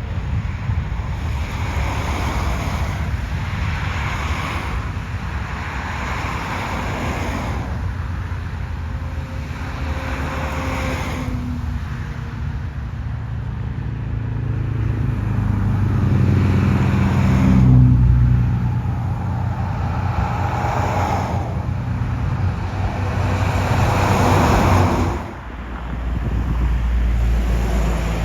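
Road traffic passing close by in repeated swells, with a deep jet-engine rumble building through the middle, peaking twice and then dropping off suddenly near the end.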